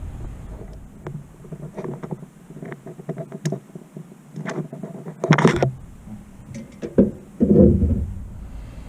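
Small metal parts and tools being handled on a workbench: scattered light clicks and knocks, with two louder clatters about five and seven and a half seconds in.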